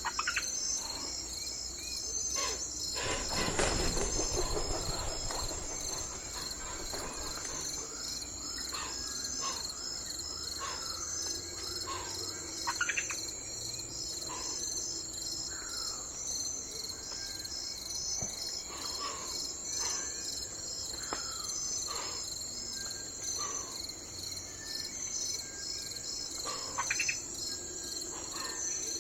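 Steady, high-pitched pulsing chorus of crickets, with scattered short chirping calls from other animals over it. A brief rushing swell about three seconds in.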